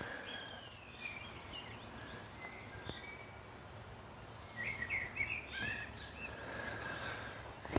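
Faint outdoor ambience with small birds chirping: a few scattered calls, then a cluster of quick chirps a little past the middle.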